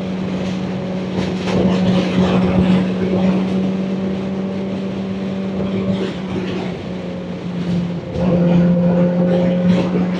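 Kawasaki Ninja ZX-4RR's inline-four engine running at steady riding revs under wind rush. It eases off slightly about six seconds in, dips briefly about eight seconds in, then pulls steadily again.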